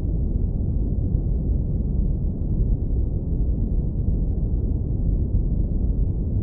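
Steady deep brown noise, low-pass filtered so that only a warm low rumble remains, with no higher hiss.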